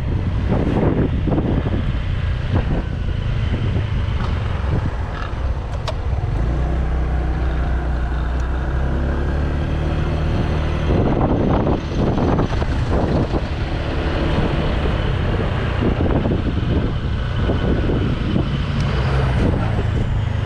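Strong wind buffeting the microphone in gusts over the running engine of a 2018 Honda PCX150 scooter, a single-cylinder four-stroke, while riding. The engine's steady hum stands out more clearly for a few seconds in the middle.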